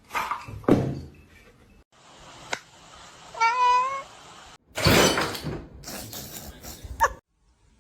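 A house cat meows once, a short wavering call, about halfway through. Around it are brief noisy stretches and sudden knocks, broken by abrupt cuts.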